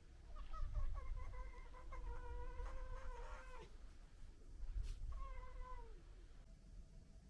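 Fox vocalising: a long, drawn-out, meow-like whining call lasting about three seconds that drops in pitch as it ends, followed a second or so later by a shorter call that also falls away.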